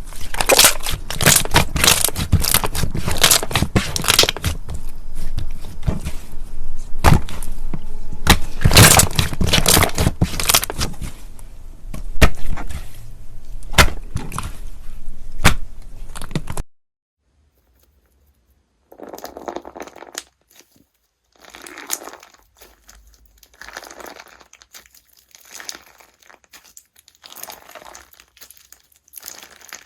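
Hands squeezing and kneading slime: dense crackling and popping for about the first seventeen seconds. After a short silence, a second, quieter slime gives separate soft squishes about every second or two.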